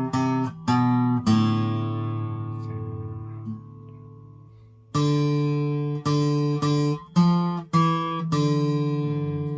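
Acoustic guitar picking a slow 3/4 waltz melody one note at a time: a few notes, then a long note left to ring and fade from about a second in, and a second phrase of single notes starting around five seconds in and ending on another held note.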